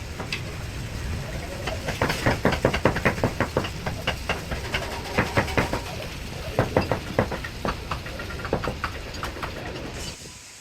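Steady machine noise in a metalworking shop, with a run of quick, irregular knocks and clicks, several a second, from about two seconds in until shortly before the end.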